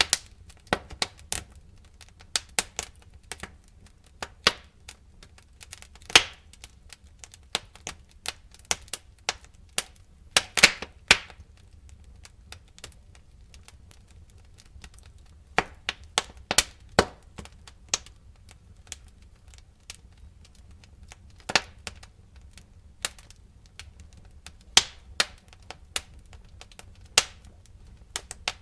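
Wood fire crackling: irregular sharp pops and snaps, a few louder ones, over a low steady rumble.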